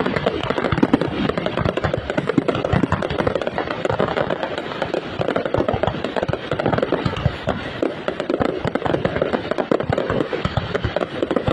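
Aerial fireworks going off in a dense, continuous barrage: many shells bursting in quick succession with no gap, booms and crackles overlapping.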